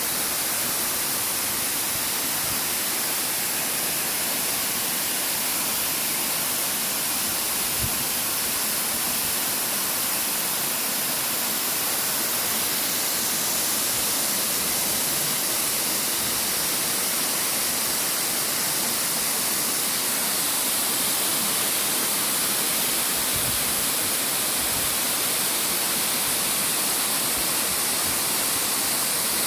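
Steady hiss of falling water, even and unbroken throughout.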